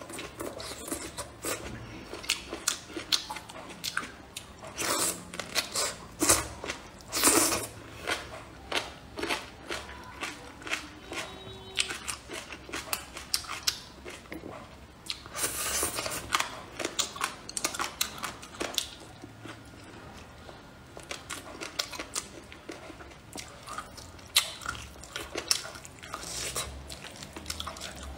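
Close-miked eating: a person biting and chewing bamboo shoots and braised pork, with many crisp crunches and clicks. The loudest crunches come about 5, 7 and 16 seconds in.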